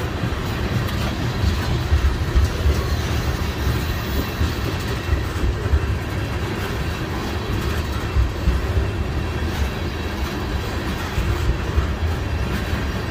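Freight train of tank cars rolling past close by: a steady low rumble of wheels on rail, with frequent irregular clanks and knocks as the wheels cross the rail joints.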